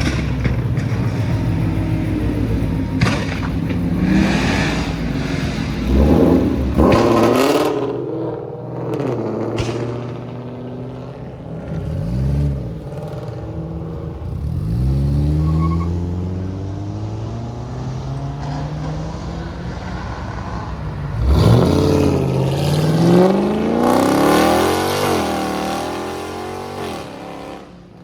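A parked car's engine idling and being revved repeatedly. There are short blips that rise and fall back to idle, then a longer, higher rev about three-quarters of the way through.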